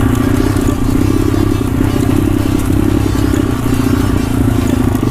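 Pit bike engine running steadily while being ridden, a fast, even firing note that holds without breaks.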